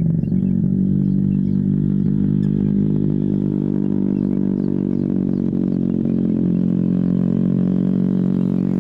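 A steady low engine drone, unchanging in pitch.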